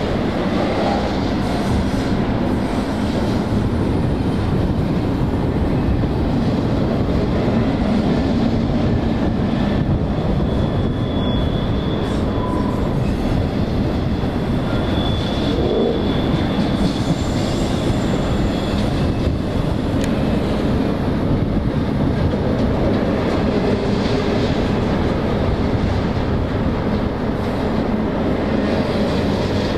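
Freight train rolling past, a steady rumble of steel wheels on rail. A faint high wheel squeal comes and goes about midway.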